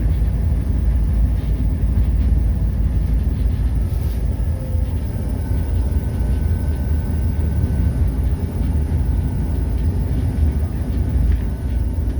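EMD SD40-2 diesel-electric locomotive running down the track, a steady deep rumble picked up outside on its short nose. A faint steady whine joins about halfway through.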